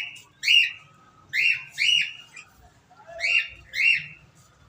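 A bird calling: short, arched, high-pitched calls repeated in pairs, three pairs in all.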